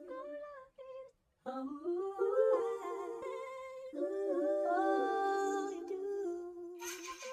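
A lone voice humming a slow, wordless melody with no beat underneath, holding long notes and sliding between them, with a short break about a second in. A hissing swell comes in just before the end.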